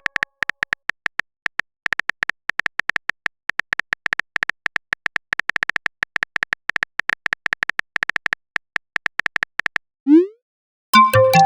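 Phone keyboard typing sound effect: rapid, irregular short clicky ticks for about ten seconds as a message is typed, then a short rising whoosh as it is sent, then a bright message-notification chime near the end.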